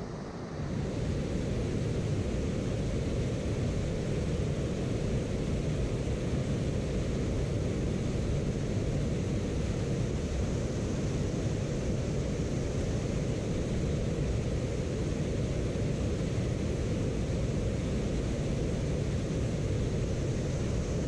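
Steady low rushing noise, loud and unchanging, that starts up just under a second in.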